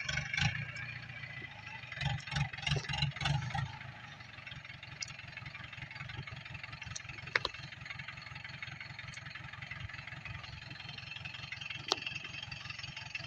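Tractor engine running steadily, with a few louder low rumbles in the first few seconds and a couple of sharp clicks later.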